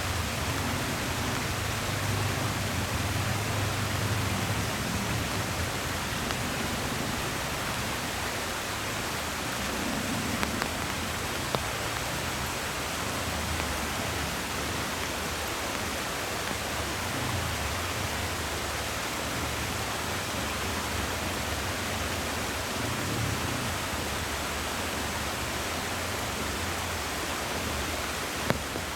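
Heavy rain falling as a steady hiss, with a low rumble that swells and fades now and then.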